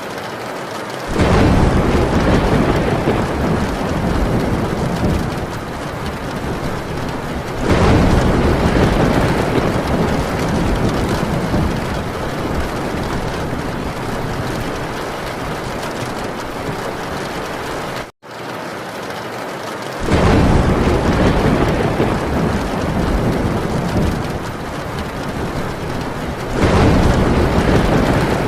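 Heavy rain drumming steadily on a metal tin roof, with rolling thunder that swells in four times, each rumble lasting several seconds. The sound cuts out for an instant about two-thirds of the way through.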